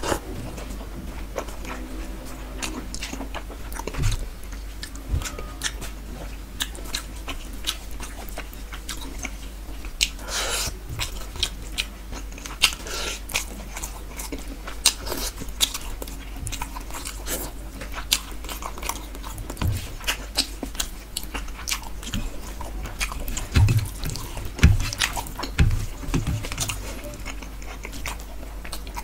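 Close-up chewing and biting of rohu fish curry and rice, eaten by hand, with many short wet mouth clicks and smacks. A louder crunchy, noisy bite comes about ten seconds in.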